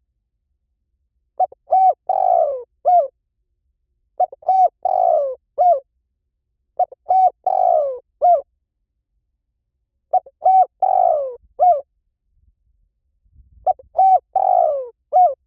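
Spotted dove calling: the same cooing phrase repeated five times at even spacing, each phrase two short coos, a longer falling coo, then a short closing coo.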